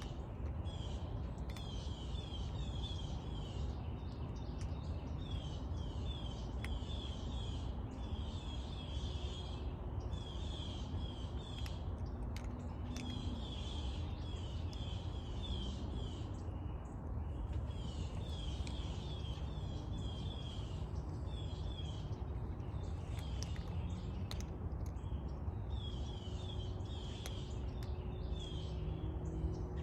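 A songbird calling over and over in quick runs of short, high chirps, a new run every second or two, over a steady low outdoor rumble.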